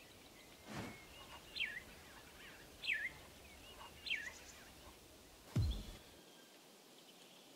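Outdoor ambience: a bird calls three times, each a quick whistle sliding downward, about a second apart, over a faint steady hiss. A soft whoosh comes near the start and a deeper one later on.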